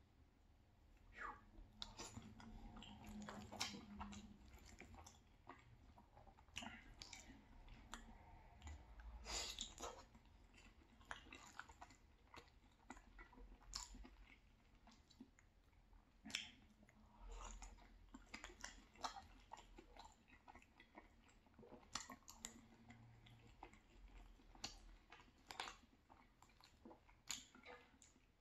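A person chewing cheesy penne pasta close to the microphone: quiet wet mouth sounds with many short sharp clicks and smacks.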